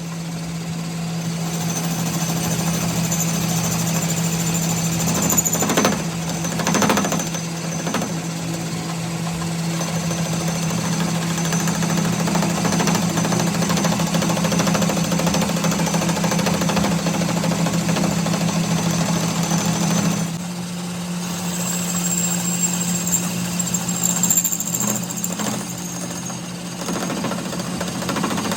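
A power tool or machine running steadily with a fast, rattling buzz over a steady low hum, with a few short knocks partway through and a change in its sound about two-thirds of the way in.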